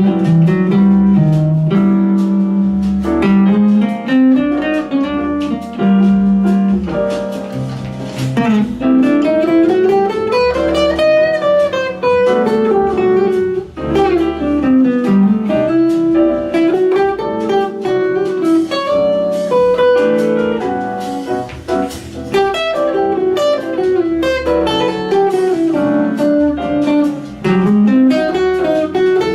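Guitar playing an improvised melody with smooth sliding pitches, over a low bass line.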